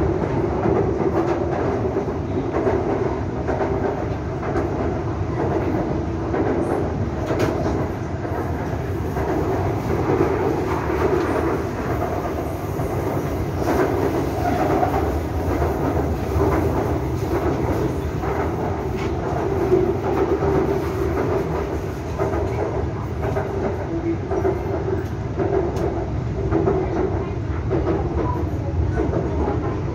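BTS Skytrain electric train heard from inside the car as it runs along the elevated track: steady running rumble with a constant low hum and occasional faint clicks from the rails.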